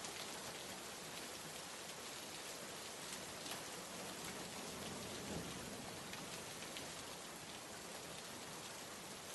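Steady rain: an even hiss with scattered patter of drops, and a faint low swell about five seconds in.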